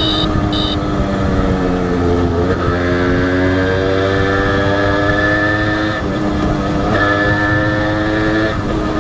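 Honda H100S two-stroke single-cylinder motorcycle engine pulling on the road, shifting up through the gears: the pitch sags, then climbs, drops sharply at a gear change about six seconds in, and climbs again before another shift near the end. Two short high beeps sound right at the start.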